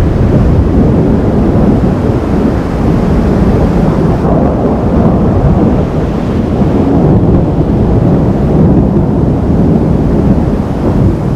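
Thunder rolling on in a long, continuous deep rumble that swells and ebbs without a sharp crack.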